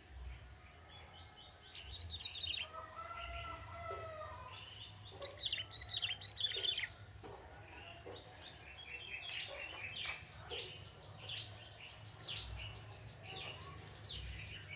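A young wild male ciblek tebu, a small prinia, singing busily in quick runs of high, chirping notes, with a steady low rumble of background noise underneath.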